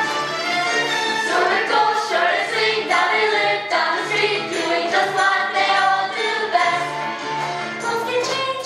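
A group of young cast members singing a song together over musical accompaniment.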